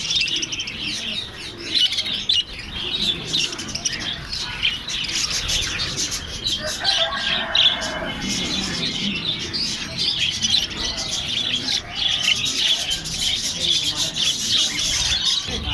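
Many small caged parrots chirping and chattering at once in a dense, continuous twitter. A lower, separate call stands out briefly about seven seconds in.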